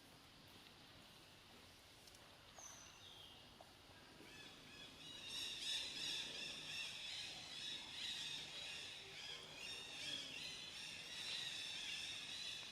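A chorus of many short, high-pitched chirping calls that sets in about four seconds in and keeps going, over faint outdoor background.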